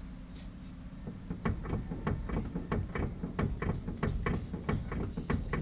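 Rapid clunking from a loose bolted part of the car being worked back and forth, about four knocks a second starting about a second in, over a low steady hum. The knock is the sign of a loose fitting, which the mechanic sets out to tighten.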